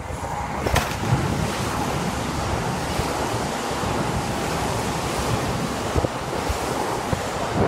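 Sotetsu 20000 series electric train running past the platform at close range: a steady loud rushing rumble of wheels and air, with a few sharp knocks along the way.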